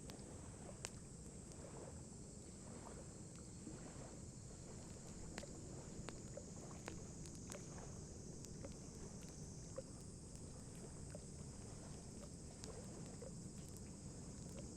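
Wood campfire crackling, with sharp pops at irregular intervals, over a steady low wash of lake water lapping and a constant high hiss.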